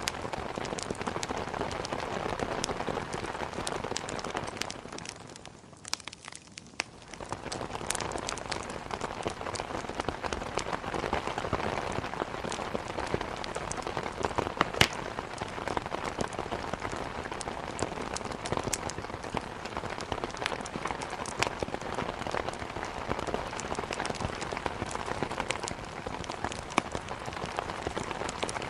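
Steady heavy rain with many sharp pops of a wood fire crackling over it. The sound fades out briefly about six seconds in, then comes back.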